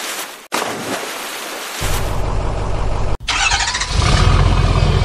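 Truck engine sound effect dubbed over the toy trucks: an engine idling, broken by abrupt edit cuts, then a louder engine rumble from about four seconds in.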